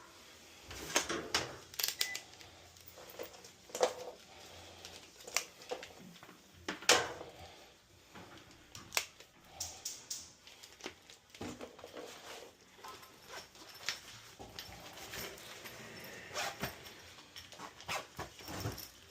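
Scattered, irregular clicks, taps and knocks, the sound of tools and parts being handled during repair work, with one sharper knock about seven seconds in.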